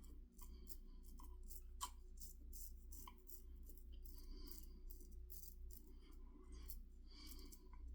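IBC Kamasori shavette blade cutting beard stubble in a run of short strokes, each a faint scratchy rasp.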